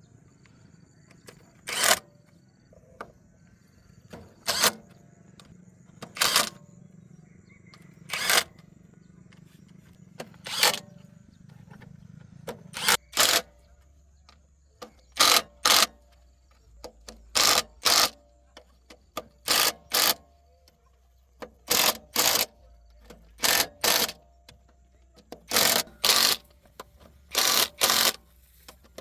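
Repeated short, sharp sounds of hand-tool work on metal parts of a field harrow, one every two seconds or so at first, then coming in quick pairs about a second or two apart.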